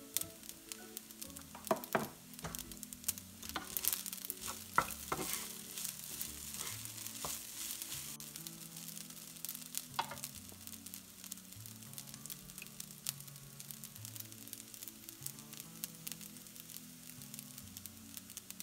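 Food frying in oil in a pan: a steady sizzle with sharp pops and crackles, busiest in the first half. Soft background music plays underneath.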